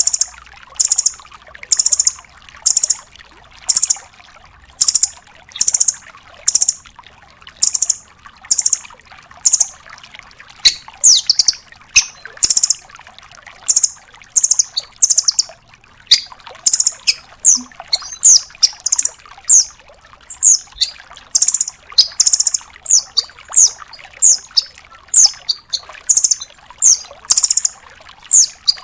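Velvet-fronted nuthatch (red-billed 'rambatan doraemon') calling in rapid 'tembakan' bursts: loud, short, high, sharp notes about once a second, breaking into quicker runs of downslurred notes from about ten seconds in.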